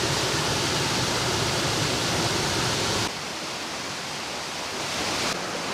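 Waterfall water rushing, a steady loud hiss that drops abruptly in level about three seconds in and shifts again shortly before the end.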